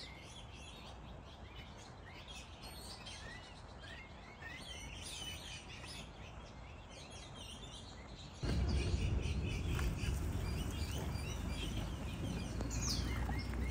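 Small birds chirping and twittering over a steady background hiss. About eight seconds in, a low rumbling noise comes in suddenly and continues under the birds.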